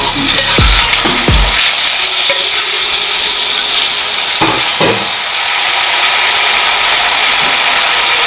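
Raw diced chicken sizzling loudly as it hits hot oil in a wok with sautéed onion and garlic paste, the sizzle holding steady while it is stirred with a spatula. A few short low knocks in the first second and a half and again around the middle.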